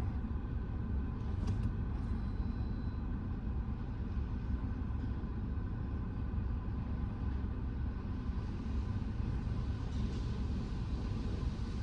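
Steady low rumble of a car idling in park inside an automatic car wash bay, with a faint steady hum above it.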